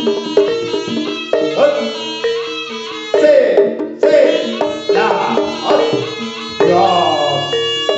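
Javanese jaranan music: struck pitched percussion ringing out note after note over drumming, with a gliding melodic line on top.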